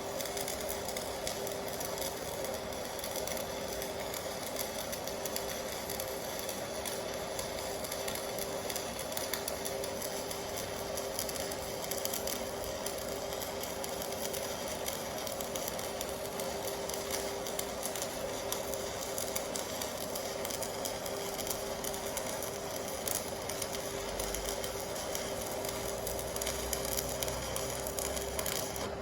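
Electric welding arc, from an AC/DC TIG 200 inverter welder, crackling and sizzling steadily with a constant hum during a finishing pass.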